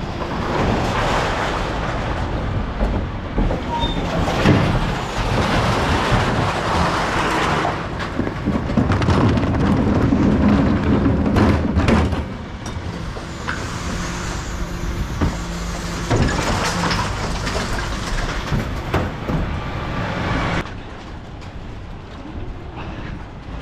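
Mercedes Econic bin lorry running, a steady engine hum under rattles and a few sharp clanks. There is a louder, rougher stretch about eight to twelve seconds in, and it quietens near the end.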